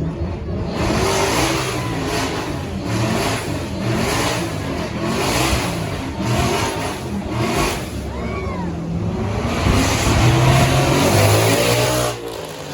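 A supercar engine being revved in a string of quick blips, its pitch rising and falling with each, then held in a longer rev that cuts off sharply near the end.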